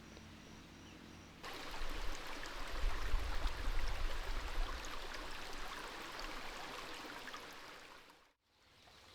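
Crickets chirping faintly, then about a second and a half in an abrupt switch to loud rushing water that slowly fades, dropping out briefly near the end.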